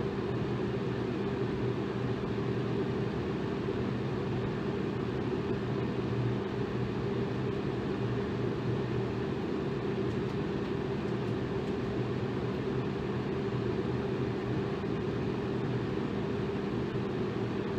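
Electric fan running steadily: a constant rush of air over a low motor hum.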